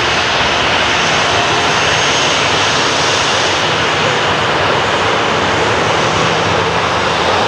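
Boeing 737-800's CFM56 jet engines running, a loud, steady jet noise with a faint low hum that comes in about halfway through.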